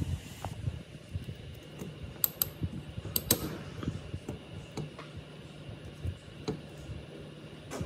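Small tools and parts clicking and tapping irregularly during hand work on a workbench, with a few sharper clicks about two to three and a half seconds in, over a steady low hum.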